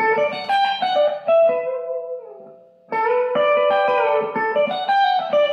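Electric guitar playing a country pedal-steel-style lick with bent notes, outlining a G to D chord change. The phrase dies away about halfway through and is then played again.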